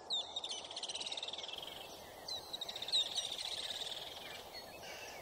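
A songbird singing: a sharp rising note and then a fast, slightly falling trill, given twice, over faint steady background noise.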